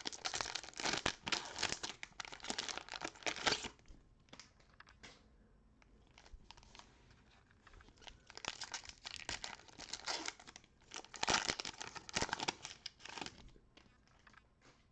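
Cellophane wrapper of an NBA Prizm cello pack being torn open and crumpled, crackling in three spells with quieter pauses between.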